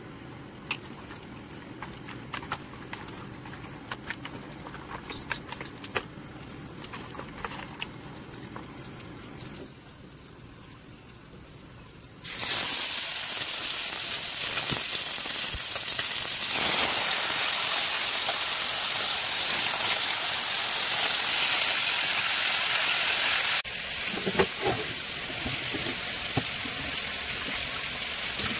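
Chicken frying in hot oil in a wok: a loud, steady sizzle that starts suddenly partway through and cuts off abruptly about eleven seconds later. Before it come light clicks and knocks of raw chicken pieces being handled; after it, water runs steadily at a kitchen sink as pork is rinsed in a plastic colander.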